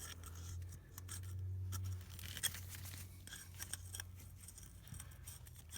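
Faint small clicks and scrapes of metal as a wrench slowly backs a broken exhaust manifold bolt, a nut welded onto its stub, out of a cylinder head. A low steady hum runs underneath, a little louder for the first two seconds.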